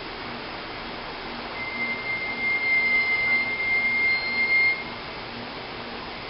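A single steady high-pitched tone starting about a second and a half in and holding for about three seconds before stopping, over a constant hiss.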